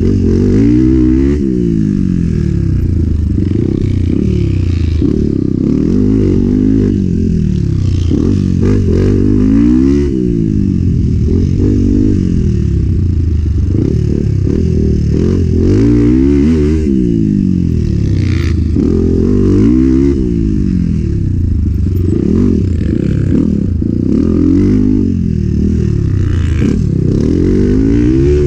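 Enduro motorbike engine revving up and down again and again as the rider accelerates, shifts and brakes along a trail, with chassis clatter. It sounds muffled.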